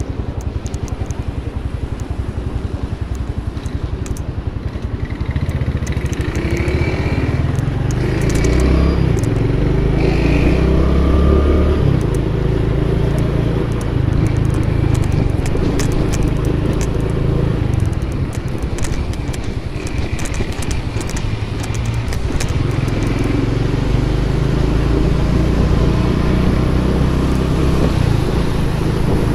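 Honda Pop 110i's small single-cylinder four-stroke engine running as the motorcycle rides through traffic, louder between about five and twelve seconds in. Light rustling and clicks sound over it.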